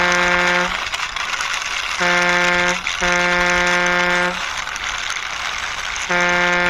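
Truck horn sound in a repeating pattern of a short honk followed by a longer one, on a steady buzzy pitch. A long honk ends just under a second in, a short-long pair comes around the middle, and another short honk starts near the end.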